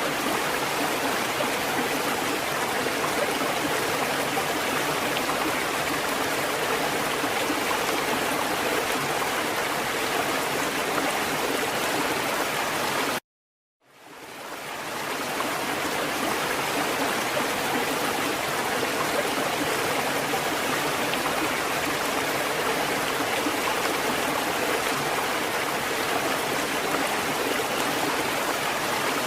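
Water fountain running with a steady rush of splashing water. About 13 seconds in it cuts out abruptly for under a second, then fades back in over a couple of seconds.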